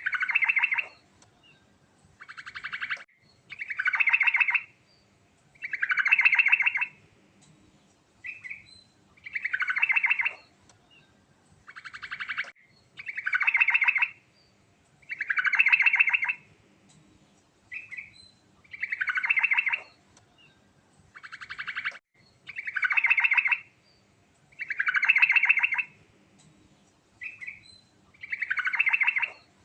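Sooty-headed bulbul (trucukan) singing in a steady repeating cycle: a short note, then two phrases of about a second each made of rapid notes. The cycle comes round roughly every three seconds.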